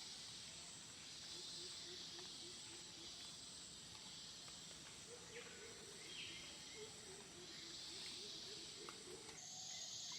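Faint rainforest ambience: a steady high insect drone, with short low animal calls repeated in quick runs, about four a second, through the middle of the stretch.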